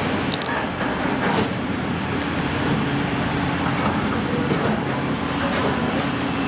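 Excavator's diesel engine running steadily, with a few short knocks about half a second and a second and a half in.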